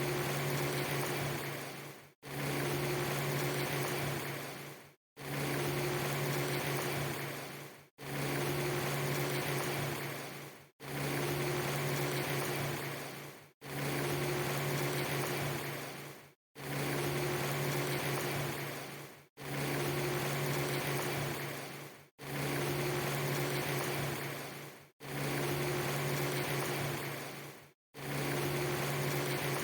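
Rain-like hiss over a steady low hum, a clip just under three seconds long looped again and again. Each repeat fades out and cuts to silence for a moment before starting again, so the loop is not seamless.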